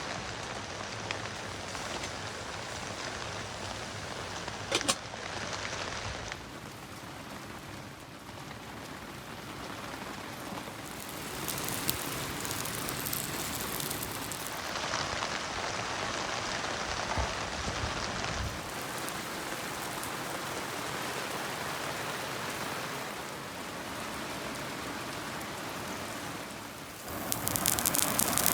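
Steady rain falling, an even hiss that shifts in level at several abrupt cuts, with one sharp click about five seconds in.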